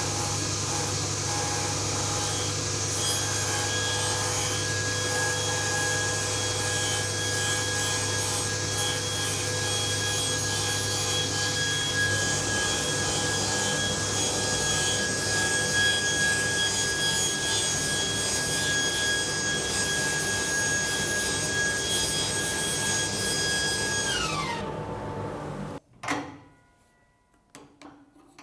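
SawStop table saw running steadily with a wood-cutting wash over its motor whine. About 24 s in it is switched off and its pitch falls as it winds down, then it stops, leaving a few faint clicks.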